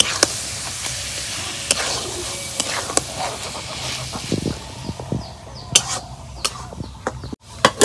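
Chicken pieces sizzling in hot mustard oil and onions in a karahi, with a metal spatula scraping and knocking against the pan as the meat is stirred. The sizzle is loudest in the first half.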